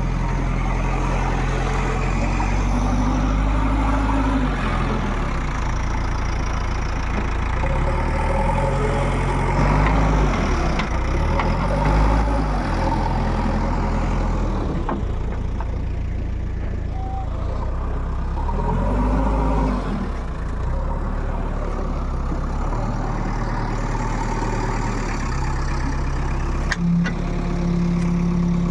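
Heavy diesel engine running steadily, revving up and settling back down several times.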